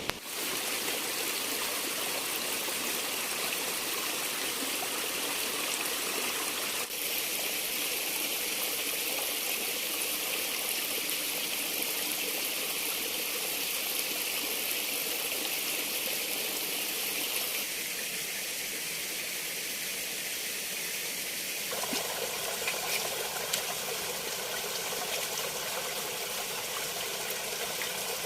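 Running water, a steady rushing like a stream, changing character abruptly a few times where the recording cuts.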